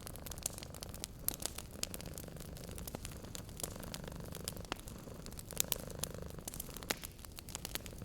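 Wood fire crackling, with frequent sharp pops and snaps, over a cat's low, steady purr that swells now and then.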